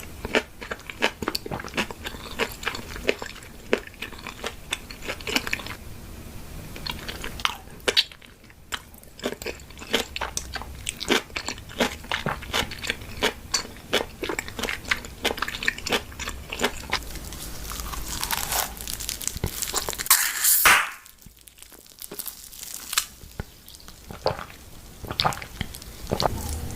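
Close-miked eating: a person biting and chewing crunchy food, with many sharp crunches in quick succession. A louder rushing noise swells about eighteen seconds in and cuts off abruptly just after twenty seconds.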